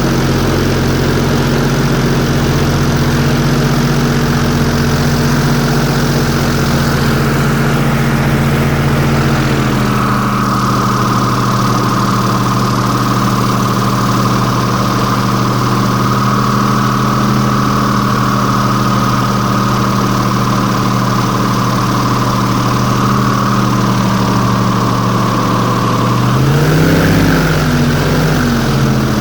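Airboat engine and propeller running steadily and loudly. Its pitch drops a step about a third of the way in, and the revs briefly rise and fall again near the end.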